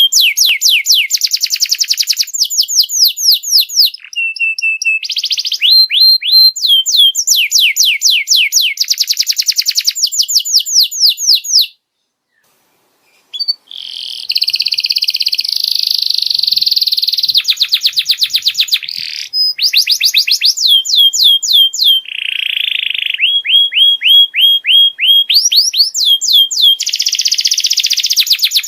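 Domestic canary singing: fast runs of repeated rising chirps in rolling tours, with buzzier, harsher trills between them. The song breaks off for about a second and a half some twelve seconds in, then resumes.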